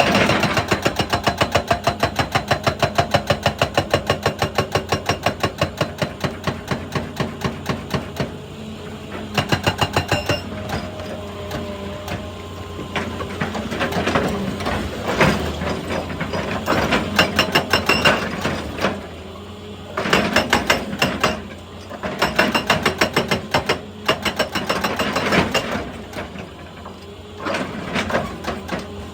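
Excavator-mounted hydraulic breaker hammering rock in rapid, even blows, about five a second, in bursts with short pauses, over a steady engine hum.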